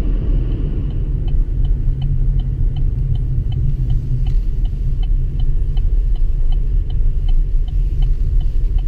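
Steady low road rumble inside a moving vehicle's cab, with a turn signal clicking evenly at about three clicks a second.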